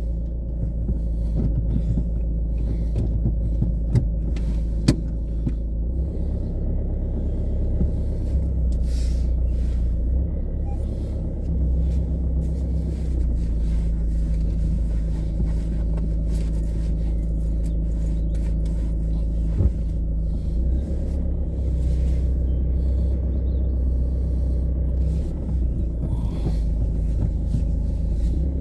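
Car driving along: a steady low rumble of engine and road noise, with a few short knocks.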